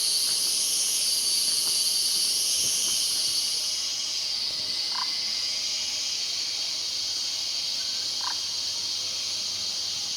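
Steady, high-pitched chorus of forest insects in several layers; the highest layer stops about four seconds in. A few faint short notes sound at intervals.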